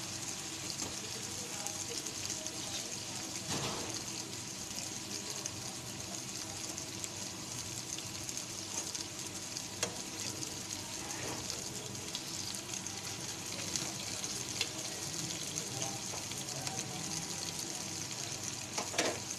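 Green chillies sizzling in oil in a frying pan over a medium-to-low gas flame: a steady crackling hiss. A few light clicks and scrapes come from a spatula moving the chillies in the pan.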